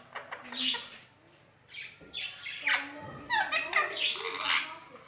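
Indian ringneck parakeet calling and talking in a series of short, high bursts, with a pause of about a second after the first call.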